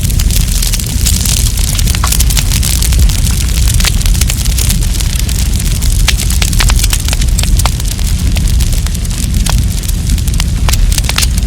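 Wood campfire burning, with dense, irregular crackling and sharp pops over a steady low rumble.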